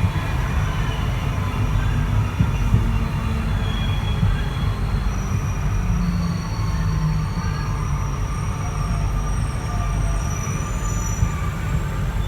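Santiago Metro NS-93 rubber-tyred train running, heard from on board: a steady low rumble with faint thin high-pitched whines and squeals drifting over it.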